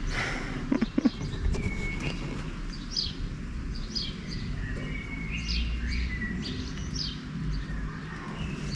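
Songbirds chirping and calling with many short, repeated notes over a steady low rumble, with a couple of short knocks about a second in.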